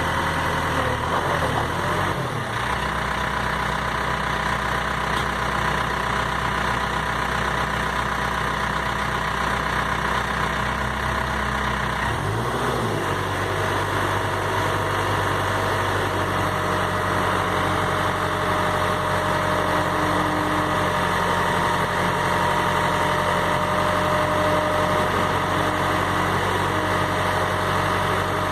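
Diesel engine of a Case 580 Super M Series 2 loader backhoe running at a steady idle, its pitch shifting briefly about two seconds in and again about twelve seconds in.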